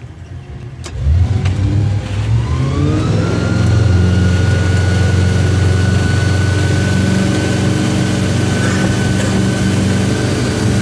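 Tow boat's engine opening up about a second in: the pitch rises for a couple of seconds as it accelerates, then holds a steady, loud run.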